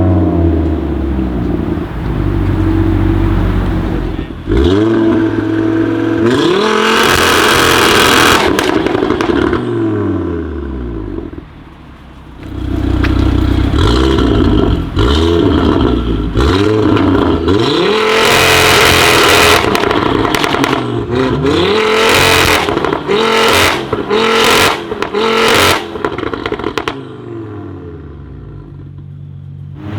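Stage 2 Audi RS3 8V's turbocharged five-cylinder engine, fitted with an aftermarket downpipe, revving up and down repeatedly, with loud bursts of exhaust crackles and pops, a quick string of them in the second half. It drops back to a quieter idle near the end.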